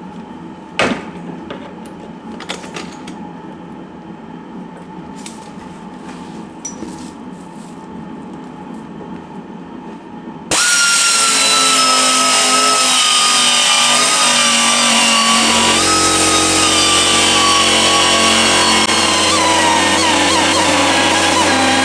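Scattered knocks and clicks, then about halfway in a power tool starts suddenly and runs loud and steady with a high whine that slowly falls in pitch.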